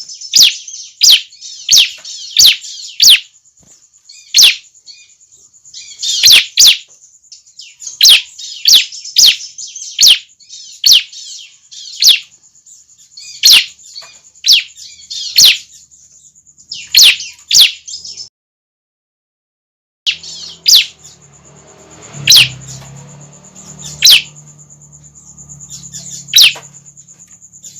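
Young bar-winged prinias (ciblek) calling: short, sharp chirps, each falling steeply in pitch, in quick runs at first and more spaced out later, over a steady high-pitched whine. The sound cuts out for about two seconds past the middle, and a low hum comes in after it.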